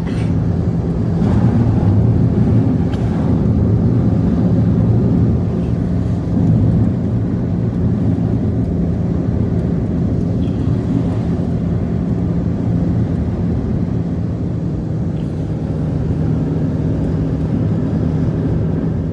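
An engine running at a steady speed with an even low drone, starting and cutting off abruptly.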